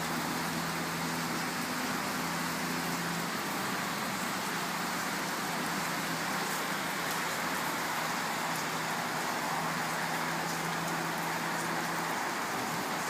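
Steady rain falling, a continuous hiss with faint scattered drop ticks. Under it runs a low steady hum that weakens, returns and stops near the end.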